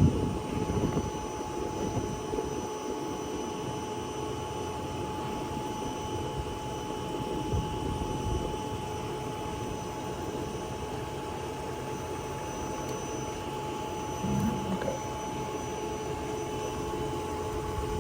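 Bee vacuum running steadily with a constant motor whine, with a few brief low knocks near the start and again about fourteen seconds in.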